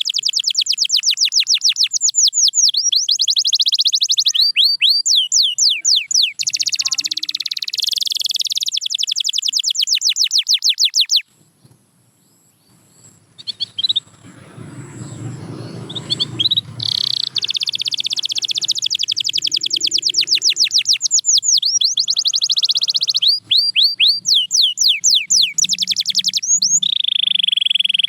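Domestic canary singing long, fast trills of rapidly repeated high notes, some sweeping up or down. The song breaks off about eleven seconds in, and a faint low rumble is heard before the trills resume a few seconds later.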